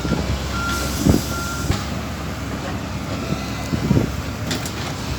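Backhoe engine running steadily with its reversing alarm beeping several times at an even pace in the first couple of seconds, with a couple of dull thuds.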